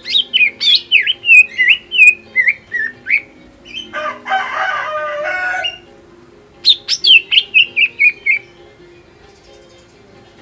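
Cucak ijo (green leafbird) singing an excited song: a quick run of sharp, down-slurred whistled notes, then a harsh chattering rattle of about two seconds, then another run of whistles. This is the 'hyper' full-repertoire song played as a lure to provoke other cucak ijo.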